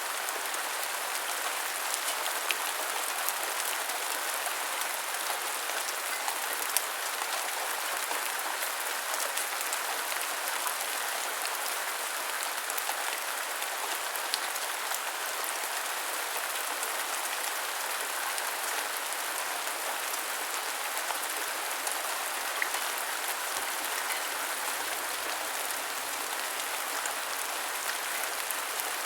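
Steady heavy rain falling on a surface: a dense, even hiss with scattered sharper drop taps.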